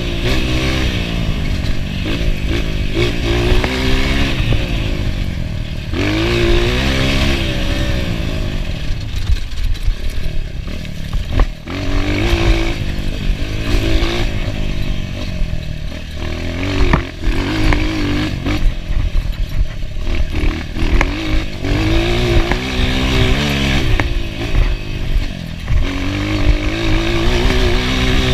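Enduro dirt bike engine being ridden hard, its note climbing and dropping every few seconds as the rider works the throttle and gears, with a brief cut about eleven seconds in.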